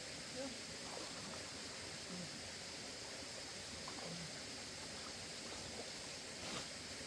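Steady rush of flowing water, with a few faint short sounds and one brief sharp knock near the end.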